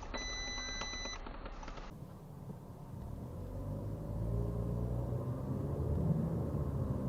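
An electronic beep held steady for about a second, then a vehicle's engine rumbling and growing steadily louder.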